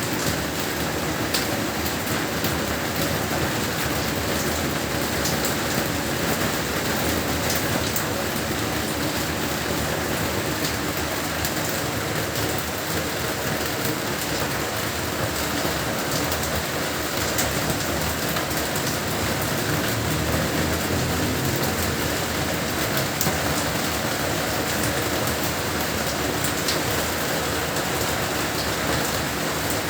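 Heavy rain falling steadily, with a few separate drop ticks standing out now and then.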